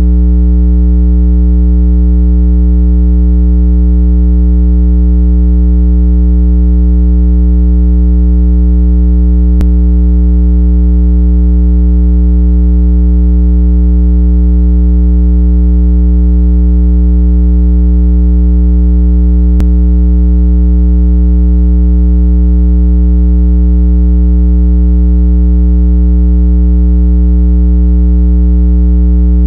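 Continuous loud, low electronic tone: a 165 Hz water-eject tone played to vibrate a speaker and shake out trapped water. It has a deeper hum beneath and fainter overtones above, and faint clicks about every ten seconds.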